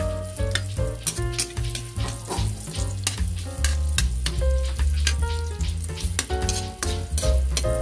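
Onion slices sizzling in hot oil in a stainless steel wok, stirred with a metal spatula that scrapes and clinks against the pan, over background music with a heavy bass.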